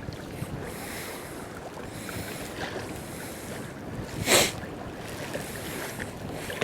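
Choppy sea water lapping and splashing against a kayak hull, with wind buffeting the microphone; a louder single whoosh of water about four seconds in.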